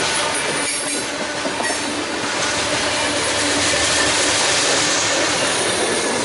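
A train rolling past close by: a steady, loud rumble and rush of wheels on rail, with a thin squeal of wheels against the rails.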